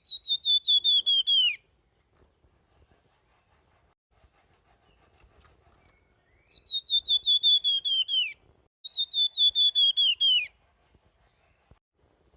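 Golden-bellied gerygone (flamboyan) singing three phrases of its flute-like song, each a fast run of high whistled notes that steps gradually lower and drops away at the end. The first phrase comes at the start; two more follow close together from about six seconds in.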